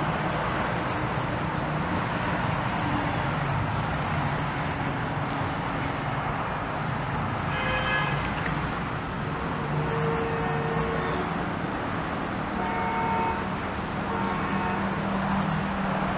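Steady motor-vehicle engine and road noise, with a brief horn-like pitched tone about eight seconds in.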